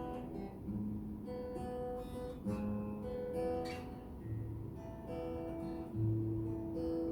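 Acoustic guitar playing a slow song introduction: held, plucked notes that change about once a second, with a couple of brief strums.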